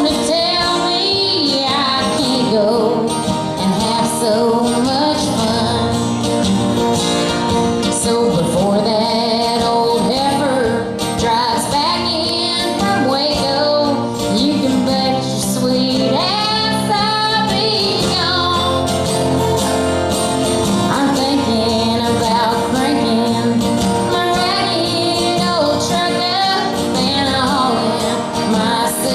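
Live country music: a woman singing over guitar accompaniment, with a steady low bass line under the voice.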